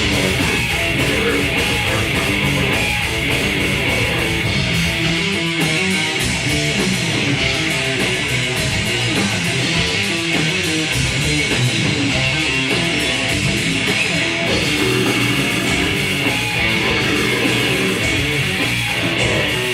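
Grindcore band playing live: loud distorted electric guitar riffing over bass and drums, the cymbals dropping back for a stretch in the middle and coming in again.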